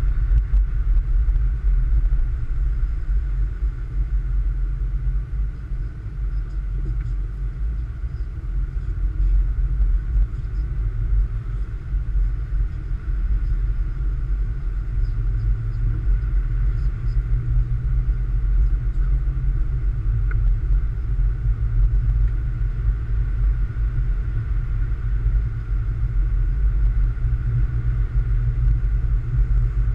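Steady low rumble of a car on the move, its engine and tyres running evenly, with a faint steady higher hum over it.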